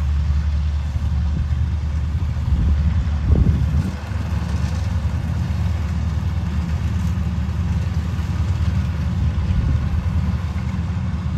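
Kubota rice combine harvester's diesel engine running steadily under load, briefly louder about three seconds in.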